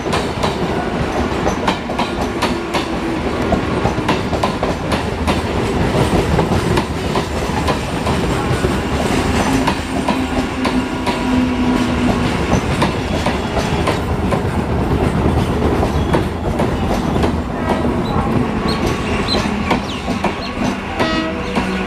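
Electric multiple unit (EMU) local train running past close by, its wheels beating out a steady, fast clickety-clack over the rail joints.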